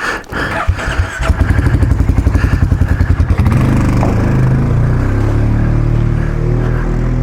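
KTM 1090 Adventure R motorcycle engine pulling away at low revs as the bike rides up a slope. It chugs in even pulses at first, then settles into steady running about three and a half seconds in.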